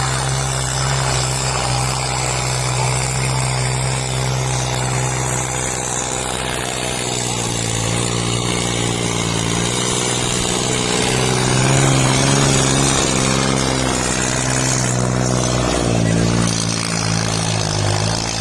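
Farm tractor's diesel engine running hard while pulling disc harrows in a pulling contest, a steady deep drone whose pitch wavers and dips briefly near the end as the load changes.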